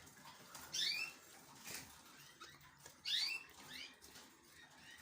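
Young canaries calling: a few short, high chirps, each quickly sliding in pitch, spread about a second apart.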